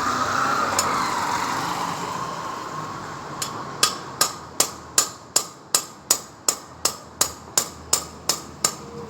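A rush of noise swells and fades over the first few seconds. Then, about three seconds in, a run of sharp, evenly spaced hammer blows begins, roughly three a second, each with a short ring.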